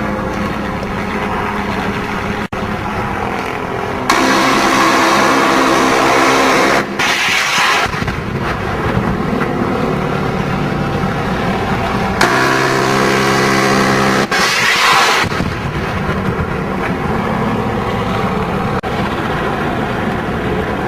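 Helicopter turbine and rotor noise running steadily, with two louder, brighter stretches and a brief cut a couple of seconds in.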